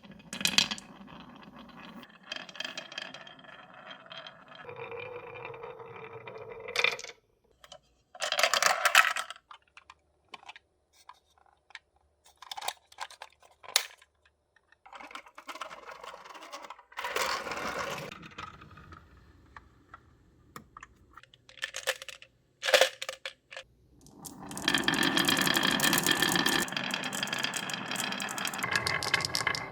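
Marbles running down a rain-gutter and wooden-rail marble run: stretches of rolling rumble broken by sharp clicks and knocks as the marbles drop between sections and strike the track. A louder, continuous run of rolling starts a little over three-quarters of the way through.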